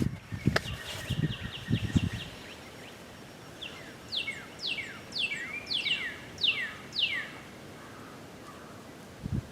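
A songbird singing: a quick run of short high chirps, then a phrase of about eight falling whistled notes about four seconds in. A few low thumps come in the first two seconds.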